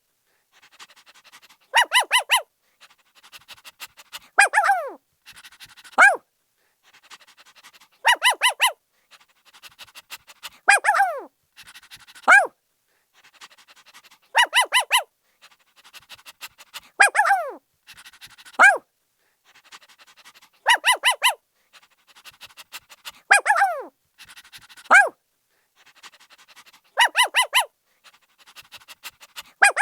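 Puppy barking in a repeating cycle about every six seconds: three or four quick, high-pitched yaps, then two short yelps that fall in pitch.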